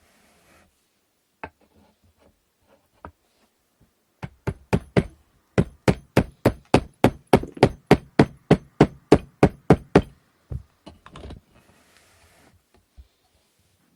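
A hammer tapping wooden inkle-loom parts together: a quick run of sharp taps about four seconds in, then a steady series of around twenty taps at about five per second that stops about ten seconds in, followed by a few scattered knocks.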